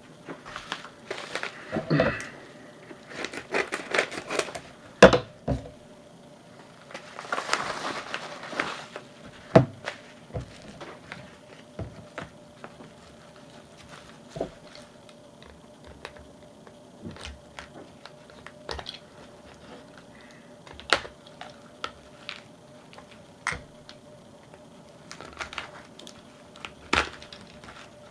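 Mail packaging and card holders being handled: crinkling and rustling with scattered sharp taps and clicks. It is busiest in the first ten seconds, with a longer rustle about eight seconds in, then thins to occasional taps.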